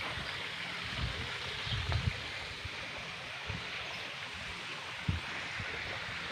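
Steady rushing of flowing water, with a few short low thumps on the microphone.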